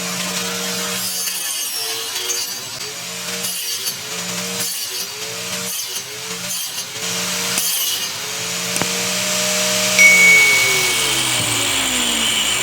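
Angle grinder running and cutting, its motor pitch dipping and recovering about once a second as the disc is pressed into the work. Near the end the motor is switched off and its whine falls steadily as the disc spins down.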